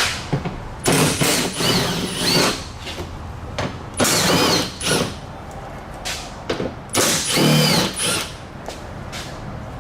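Handheld power tool run in three short bursts, its pitch rising and falling with each burst.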